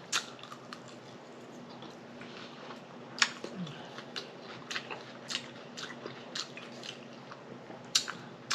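Close-miked eating: chewing with irregular wet mouth clicks and lip smacks, a few sharper than the rest.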